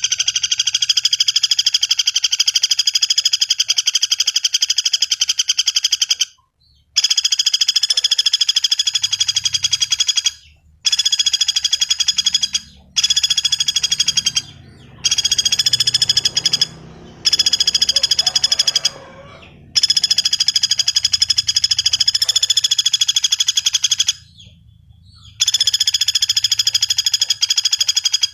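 Common flameback woodpecker (pelatuk bawang) calling in long, rapid rattling trills, repeated one after another with brief pauses between them.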